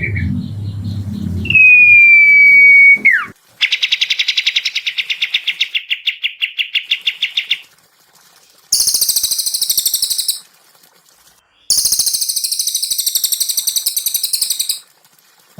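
Recorded songbirds calling in turn. First comes a held high whistle that drops sharply at its end, then a fast even trill of about ten notes a second lasting about four seconds, then two bursts of very high, harsh chattering. A low rumble runs under the first second and a half.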